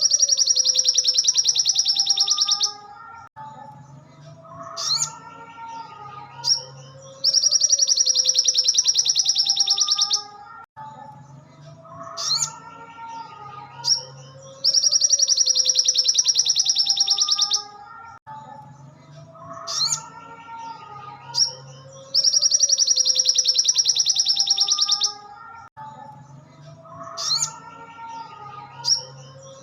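Looped recording of a sogon (little spiderhunter) singing for bird tutoring: a loud, very rapid high trill of about three seconds, followed by a few short sharp chirps and softer lower warbling notes. The same phrase repeats about every seven seconds, four times in all.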